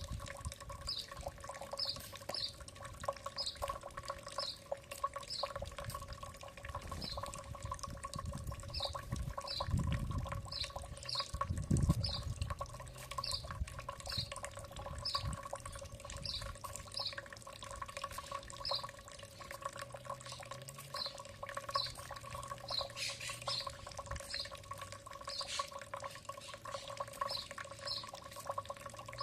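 A bird calling with short, high chirps, about two a second, over a steady hum. Two low rumbles come near the middle.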